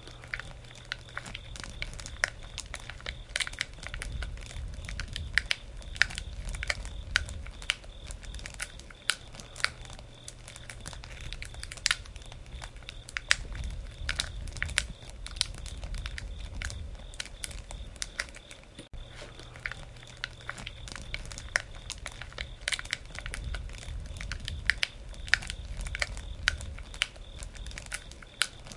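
Campfire burning: the wood crackles and pops in irregular sharp snaps over a low rumble of flame that swells and fades.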